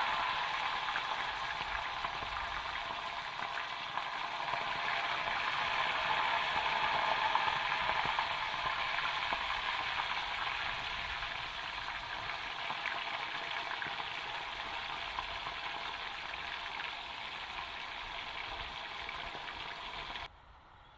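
Chicken frying in hot oil, a steady sizzle that cuts off suddenly near the end.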